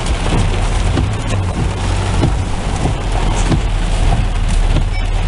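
Heavy rain falling on a car's roof and windshield, heard inside the cabin over the car's low, steady engine rumble as it is reversed into a parking space; scattered drops tick throughout.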